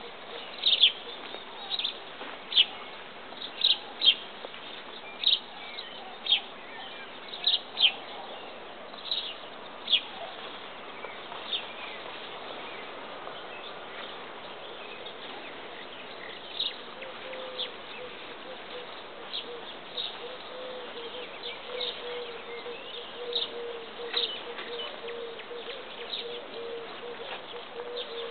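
Garden ambience: a small bird chirping in short high notes, about one a second at first, sparser later. From about halfway an insect's steady buzz joins in.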